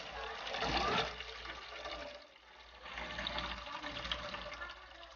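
Thin stream of water running from the spigot of a blue plastic water container into a metal pot, filling it; the splashing dips briefly about halfway through.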